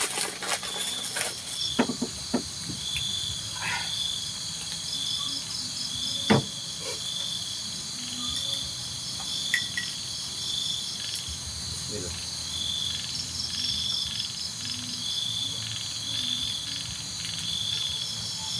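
Night insects, crickets among them, chirping steadily: one call pulses about once a second over a continuous higher trill. A single knock about six seconds in.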